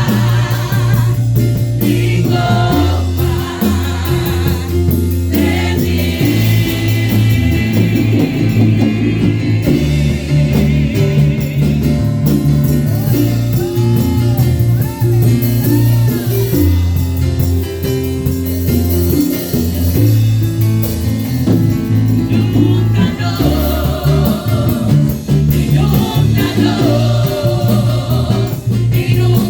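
Spanish-language praise-and-worship music: a band and singing over a bass line whose held notes change every second or two.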